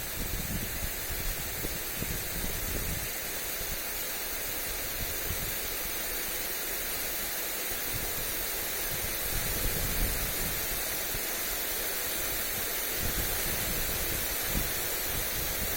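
Lawn sprinkler spraying water onto grass: a steady hiss, with irregular low gusts of wind buffeting the microphone.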